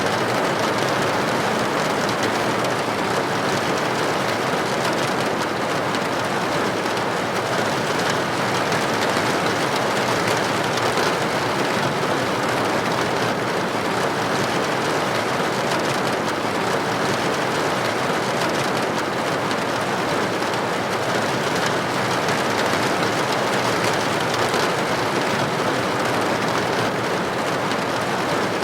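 Steady rain with droplets hitting a building window: an even, continuous hiss flecked with the ticks of single drops.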